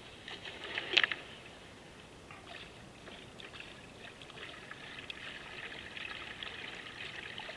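Kayak paddle strokes in calm water: water trickling and dripping from the blade, with a louder splash about a second in.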